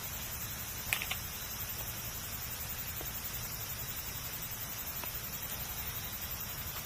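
Campfire burning with a steady hiss and a few sharp crackles and pops, the loudest two about a second in.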